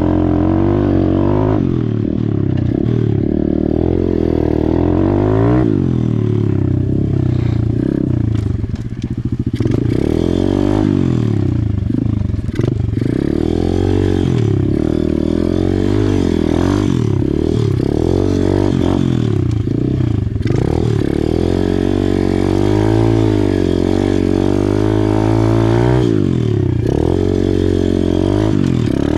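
Small single-cylinder four-stroke pit bike engine ridden hard around a dirt track, its note rising and falling again and again as the throttle opens and closes, with brief dips about nine and twelve seconds in.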